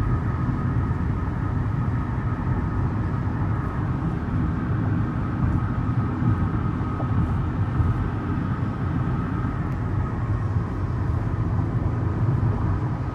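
Steady road and engine noise of a car driving on the highway.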